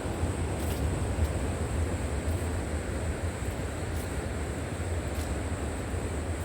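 River water flowing, a steady rushing noise with a deep rumble, and a faint steady high whine above it.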